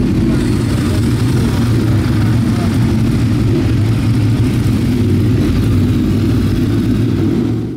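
Ducati 848 L-twin engine heard onboard the racing motorcycle, running hard at fairly steady revs. The sound cuts off abruptly at the end.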